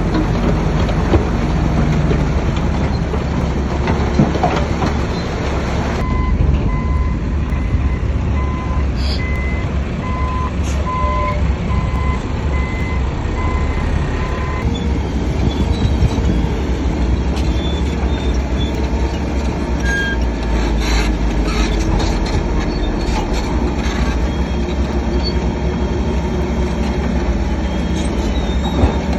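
Heavy diesel earthmoving machinery, a bulldozer and dump trucks, running with a steady heavy rumble. A reversing alarm beeps about once a second for several seconds partway through, and short metallic clanks come later on.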